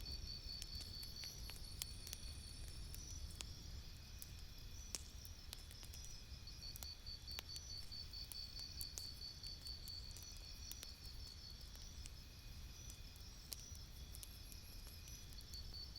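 Campfire crackling: scattered sharp pops and snaps over a low steady rumble. A high, rapidly pulsing chirp runs alongside, briefly fading about a third of the way in.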